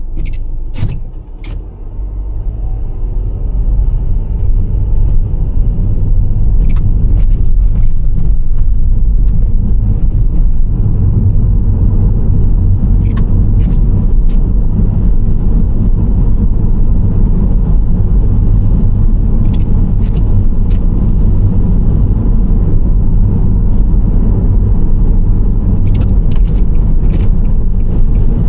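Nissan Serena C25 minivan driving: a steady low rumble of engine and road noise that builds over the first few seconds, then holds. Brief clusters of light clicks come every few seconds.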